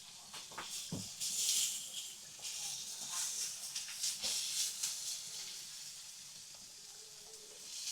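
Peppers sizzling on a hot marble slab over a fireplace fire, the hiss swelling and easing in waves, with a few light knocks.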